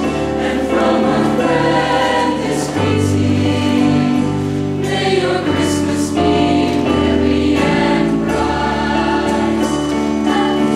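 A choir singing held chords that change every second or two.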